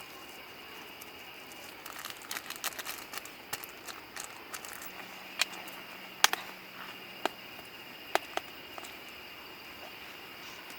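Light crinkling and clicking of small objects being handled during camp cooking: a busy run of crinkly clicks about two seconds in, then a few sharper single clicks up to about eight seconds in, over a steady high-pitched tone.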